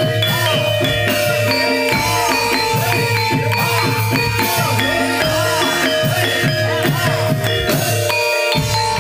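Javanese gamelan music accompanying a jaranan dance: hand drums and struck metallophones playing a steady, dense rhythm over held ringing tones.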